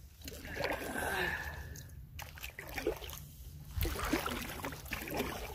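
Canoe paddle strokes: water swishing and splashing against the paddle and the hull, several strokes in a row.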